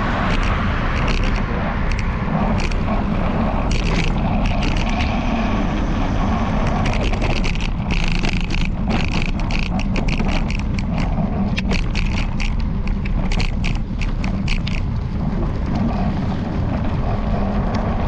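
Bike-mounted camera mount rattling in quick clicks, thickest in the middle, over a steady deep rumble of wind on the microphone and road noise while riding.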